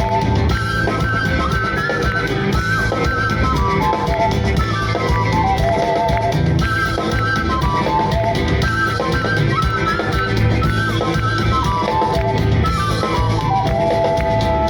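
Live rock band playing an instrumental passage: a lead melody of held, stepping notes over drums and guitar, with no singing.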